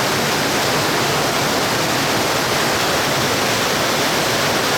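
Mountain stream water rushing steadily, a constant loud rush with no breaks.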